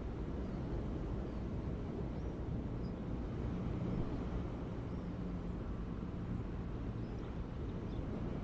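Ocean waves: a steady low wash of surf. A faint low hum comes in for a few seconds in the middle, and faint high chirps sound now and then.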